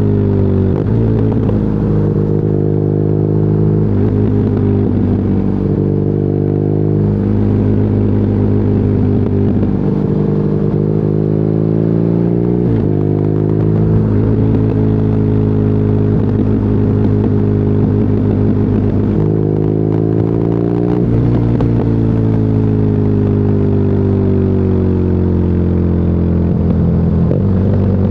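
BMW R nineT's boxer twin engine through an Akrapovic exhaust, riding under load, with the pitch jumping in steps at gear changes and a sharp drop and climb about halfway through. Near the end the engine eases off and its pitch falls steadily.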